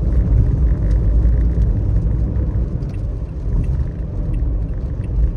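Steady low rumble of a car driving on a wet road, with faint light ticks now and then.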